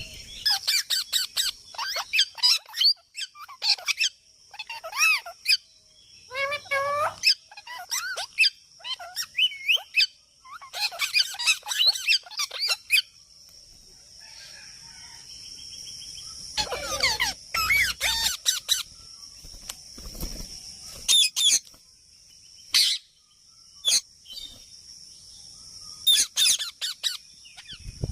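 Pet parrot chattering: quick runs of chirps and squawky calls in bursts, with short pauses between them.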